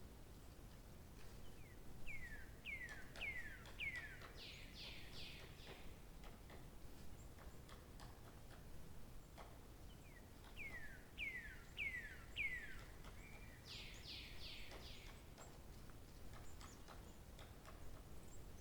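A songbird singing the same phrase twice, several seconds apart: four quick down-slurred whistled notes, then a fast, higher run of notes. Faint ticks and a soft hiss run underneath.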